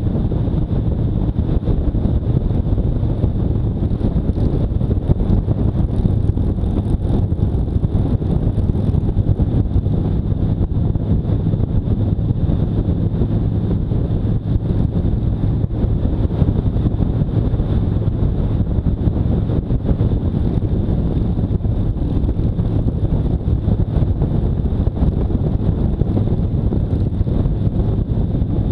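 Motorcycle engine running at a steady cruise, its low hum holding one pitch, under loud wind rush on the microphone.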